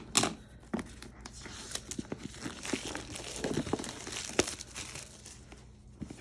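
Packaging wrap crinkling and tearing as a sketchbook is unwrapped by hand, an irregular run of crackles and rips with sharper snaps just after the start and about four seconds in.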